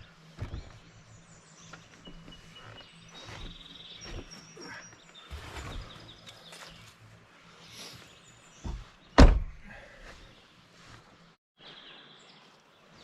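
Birds chirping in the open air, with scattered knocks and handling sounds and one loud thump about nine seconds in.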